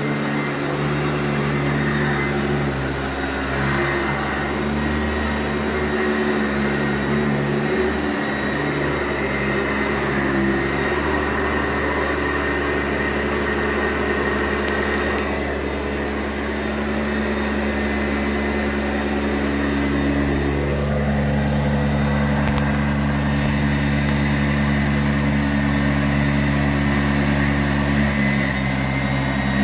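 Sanitaire SC684G upright vacuum cleaner running steadily over carpet, a continuous motor hum with a whooshing airflow. Its motor note changes about two-thirds of the way through.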